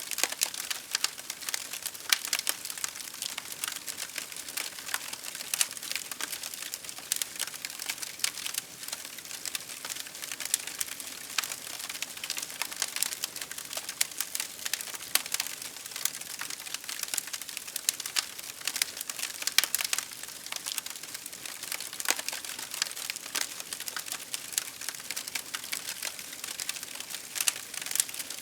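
Wood fire crackling: a dense, irregular stream of sharp pops and snaps over a soft steady hiss of burning.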